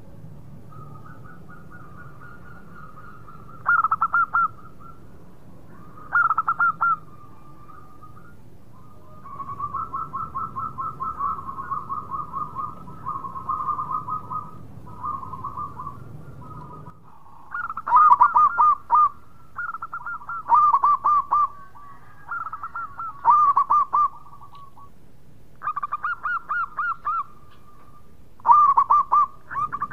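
Zebra dove (perkutut) cooing: repeated bouts of rapid staccato notes, with a long, quieter run of pulses in the middle and louder, clipped bouts every couple of seconds in the second half.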